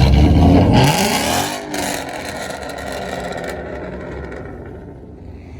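A car engine revving hard and accelerating away, its pitch rising about a second in. The sound then fades over the next few seconds.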